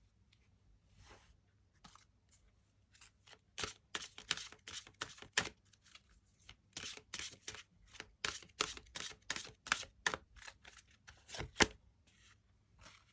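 Tarot cards being shuffled and handled: a run of quick clicks and snaps that starts a few seconds in and thins out near the end, with one sharp snap shortly before it stops.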